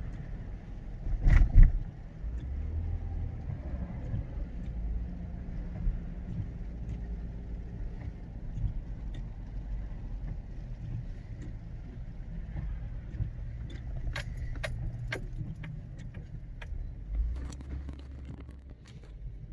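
Car cabin road noise as the car drives, a steady low rumble with a loud knock about a second and a half in. Sharp rattling clicks come in a cluster near the end, like loose keys jangling as the car goes over bumps.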